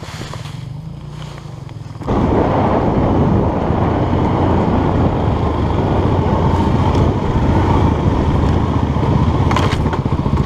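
Enduro motorcycle engine running steadily at low revs, then about two seconds in it opens up and keeps running loud under throttle as the bike rides on.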